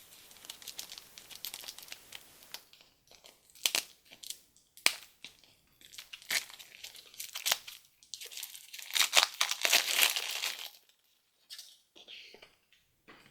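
Crinkly plastic packaging of a Shopkins surprise toy being crumpled and torn open by hand, in irregular crackling bursts, loudest near the end, then a few light rustles.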